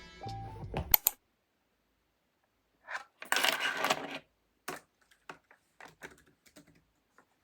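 Background music cuts off about a second in. After a pause, a short clattering rustle of small objects being handled, followed by a series of light, scattered clicks and taps.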